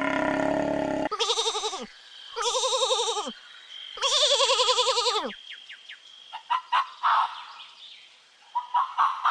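Goat bleating three times: long, wavering bleats, each dropping in pitch at the end. Before them, the tail of a different animal call cuts off about a second in. After them come short bird chirps.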